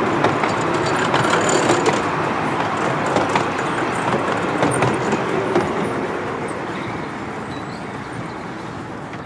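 Miniature railway passenger carriages rolling past on the rails, a steady clatter of wheels on track with scattered clicks, fading over the last few seconds as the end of the train moves away.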